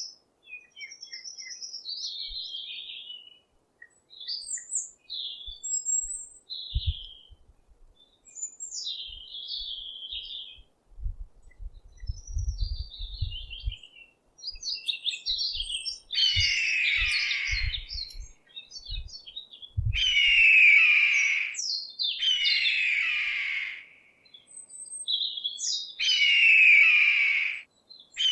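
Songbirds chirping and calling in short high notes, then a louder song phrase of about two seconds repeated four times with short gaps. Low thumps of handling or wind noise on the microphone come in the middle.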